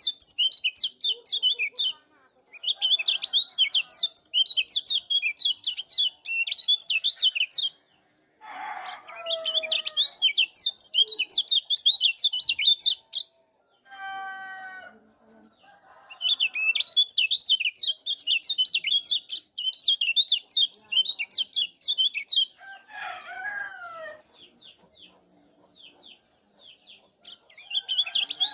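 Kecial kuning, a Lombok white-eye, singing its fast, high chirping song in bouts of several seconds with short pauses between. A few lower calls from another bird come in the pauses.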